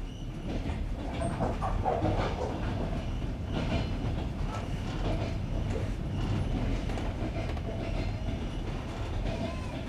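Passenger train carriage running over jointed rails: a steady rumble of the wheels with the clickety-clack of the wheels striking the rail joints.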